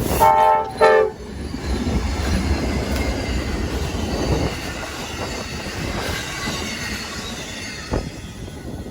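A locomotive horn sounds two short blasts, then a train rolls past with a steady rumble and a faint high wheel squeal, with wind buffeting the microphone.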